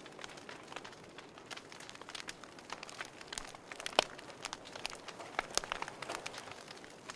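Wood fire burning in a fireplace, crackling with irregular sharp pops and snaps over a soft steady hiss; one pop about four seconds in is the loudest.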